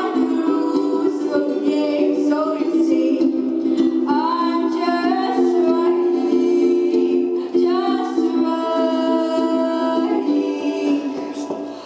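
A girl singing a song solo, with long held notes, over instrumental accompaniment.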